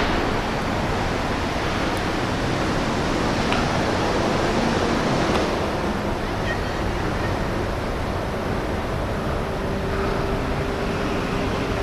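Steady rushing noise of wind on the microphone, with no clear hits or calls standing out.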